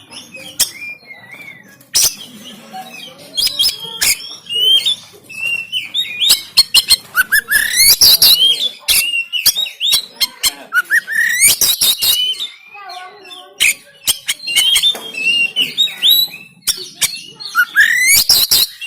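Oriental magpie-robin (kacer) singing a loud, fast, varied song of rising whistled glides, rasping harsh notes and sharp clicks, the harsh 'tembakan' phrases of a fired-up male.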